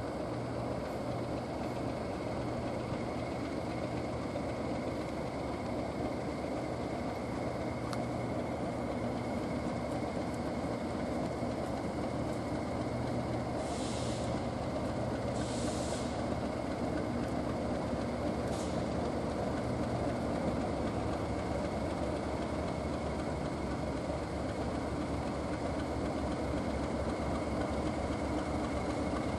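Class 37 diesel locomotive's English Electric engine running with a steady low hum, with three short hisses of air about halfway through.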